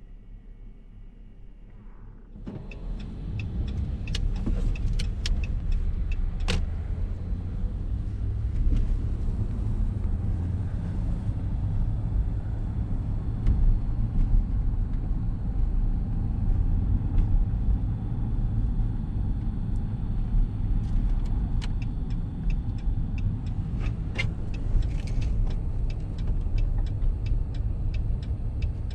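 Truck engine and road noise heard inside the cab: a steady low rumble that begins about two and a half seconds in and holds while driving, with scattered light clicks.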